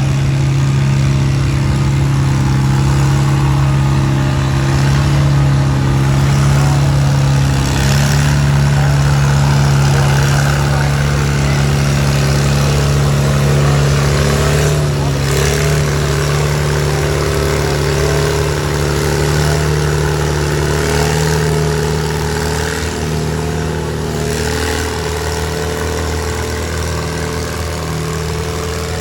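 Antique tractor engine running steadily at a constant speed, loud, with its pitch rising slightly about halfway through.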